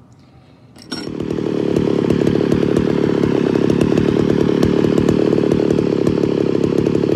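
A small electric chain-sharpening tool switched on with a click about a second in, spinning up over a second and then running loud and steady.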